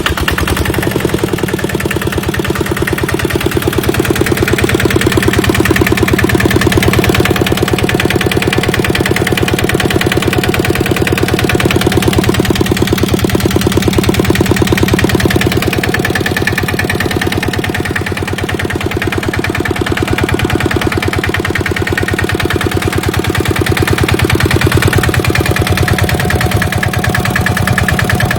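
Kubota single-cylinder diesel engine of a walk-behind tractor running steadily, with a fast, even chug of firing strokes.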